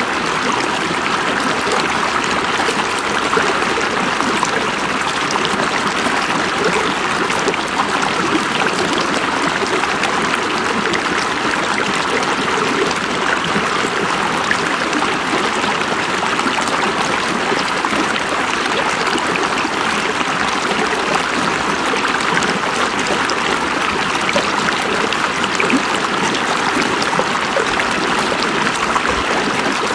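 River water flowing and babbling over stones: a steady, unbroken rush.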